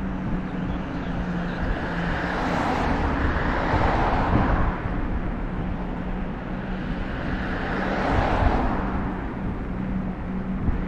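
Two motor vehicles passing one after the other, each noise swelling and fading over a few seconds. A steady low rumble runs underneath.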